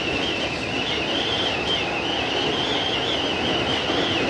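JR East 205 series electric train running on steel rails, heard from the leading car: a steady rumble of running noise with a high-pitched squeal that wavers up and down, typical of wheels squealing against the rail.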